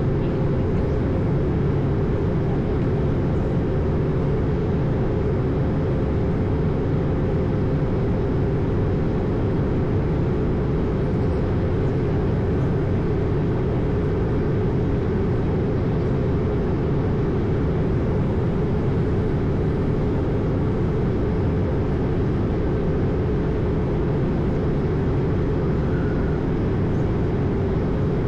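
Steady cabin noise on the flight deck of an Airbus A220 in flight: a constant rush of airflow and drone from its Pratt & Whitney PW1500G geared turbofans, heaviest in the low range with a faint steady hum on top.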